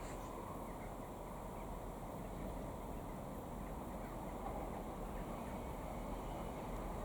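Faint, steady outdoor background noise at a railway station with no train passing, broken by a few faint high chirps.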